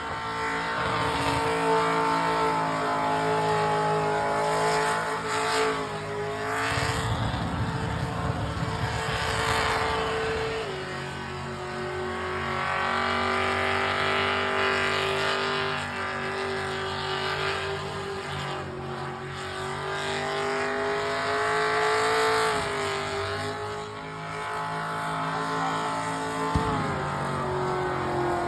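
An engine held at high revs through a long burnout, tyres spinning and squealing on the pavement. The engine note stays steady, dipping briefly in pitch a few times.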